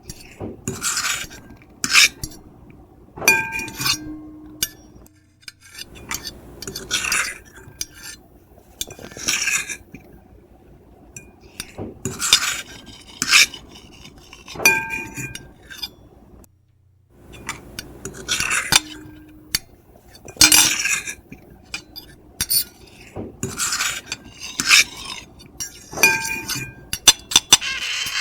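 Metal fork and knife scraping and screeching across a plate in short, irregular strokes every second or two, several with a brief squealing tone. There is a short pause about two-thirds of the way through.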